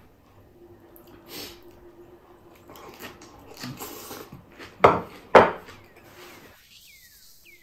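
A man chewing a mouthful of noodle salad eaten by hand, with soft mouth noises throughout and two sharp, loud sounds about half a second apart a little past the middle.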